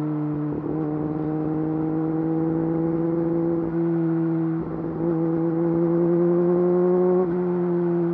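Yamaha YZF-R6's inline-four engine running through an Akrapovič full exhaust system under way, its steady note climbing slowly in pitch, with brief dips in the sound a few times.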